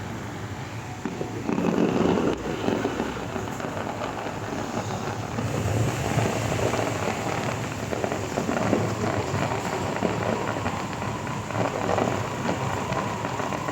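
Fireworks display: deep booms of bursting shells mixed with dense, continuous crackling, swelling about two and six seconds in.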